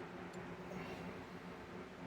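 Electric melting furnace humming steadily, with a faint tick about a third of a second in.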